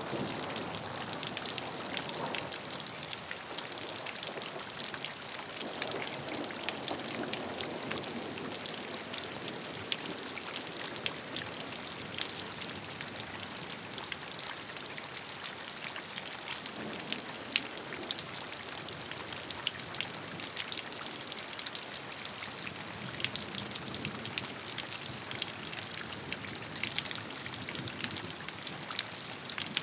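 Steady gentle rain, with many close individual drops ticking sharply on a surface over an even hiss of rainfall.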